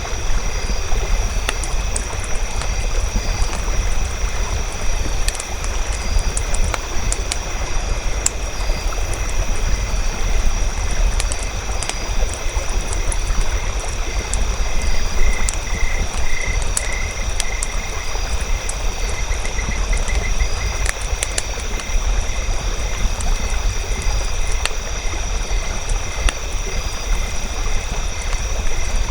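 Campfire crackling with scattered sharp pops over a low rumble, set against a steady high trilling chorus of night creatures that pulses briefly around the middle.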